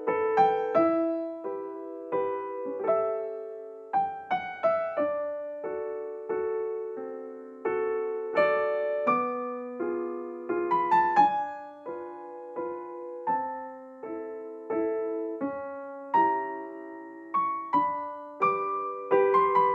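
Background music: a gentle solo piano melody of single struck notes, each ringing and fading.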